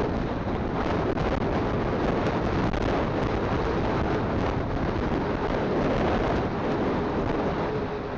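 Steady wind rush buffeting a phone's microphone on a moving motorcycle, with the motorcycle's engine drone underneath.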